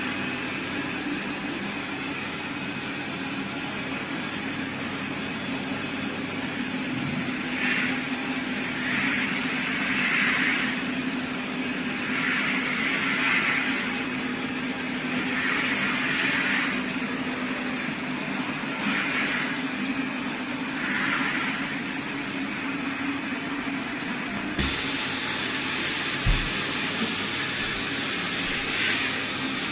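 iRobot Roomba Combo 405 robot vacuum-mop system running with a steady motor hum and repeated swishing every second or two. About 25 s in a higher hiss joins, with two short knocks.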